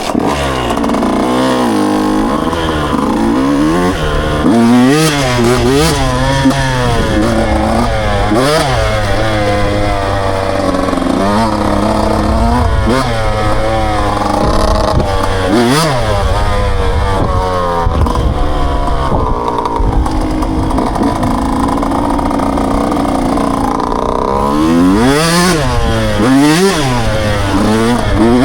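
Dirt bike engine running under way, its pitch climbing and dropping over and over as the throttle is opened and closed through the gears. It settles to a steadier note for several seconds in the latter part, then revs up and down again near the end.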